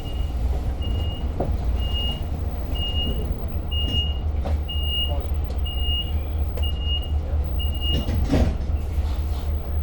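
Inside a diesel-hauled Long Island Rail Road train, an electronic warning beep repeats at one steady pitch about once a second, some ten times, and stops about eight seconds in. Under it runs the steady low rumble of the moving train, with a knock just after the beeps stop.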